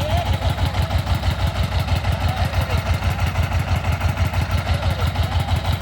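Rice threshing machine running steadily, its engine throbbing with a fast, even beat.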